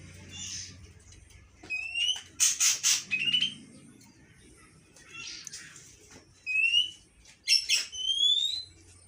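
A songbird calling in bouts: short rising whistles mixed with loud, harsh chattering bursts, loudest from about two to four seconds in and again around seven to eight seconds.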